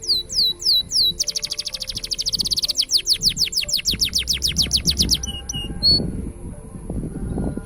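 Green canary singing: a few slurred downward notes, then a long, rapid trill of falling notes lasting about four seconds, then a couple of single notes.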